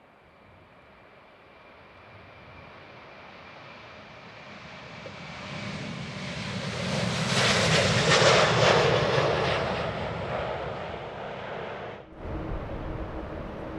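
Jet airliner passing by, its engine noise building from faint to a loud peak about eight seconds in, then fading away. Near the end it breaks off suddenly and a different steady engine hum takes over.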